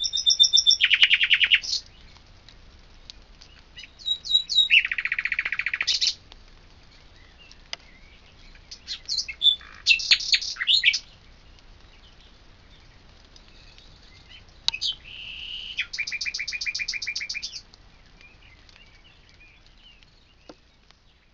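Birdsong: four short phrases of fast high trills and whistles, a few seconds apart.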